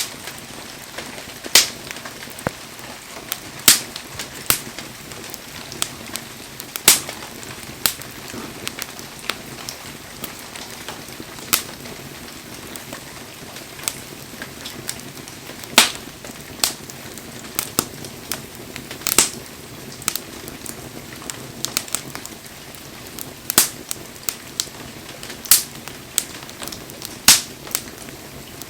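Wood bonfire crackling: a steady low hiss of burning firewood with irregular sharp pops and snaps, a few of them much louder than the rest.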